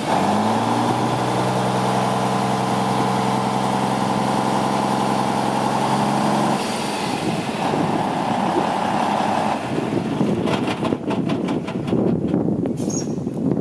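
Heavy diesel truck engine, the Cummins N14 of a 1999 International 9100, running steadily with a droning hum that cuts off abruptly about six and a half seconds in. Rougher running noise and a quick rattling clatter follow near the end.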